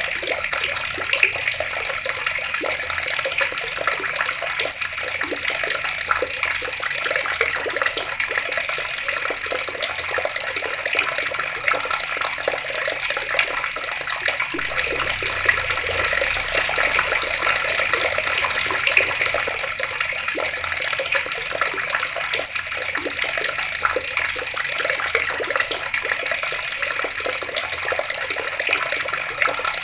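Water running steadily from a tap and splashing down without a break.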